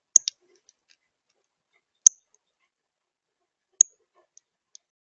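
Short, sharp, high chip notes: a quick pair at the start, single chips about two seconds and nearly four seconds in, and two fainter ones near the end.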